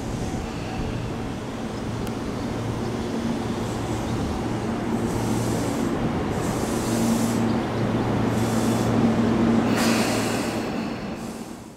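Electric commuter train pulling in along the platform and slowing to a stop: a steady low hum that grows slowly louder, with several short hisses in the second half. The sound fades out at the very end.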